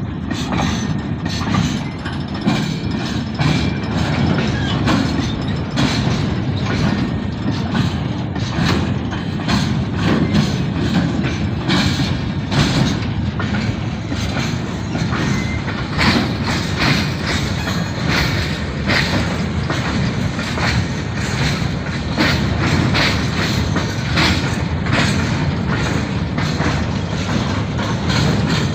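A train running past at close range: a steady heavy rumble, with the wheels clicking over the rail joints again and again.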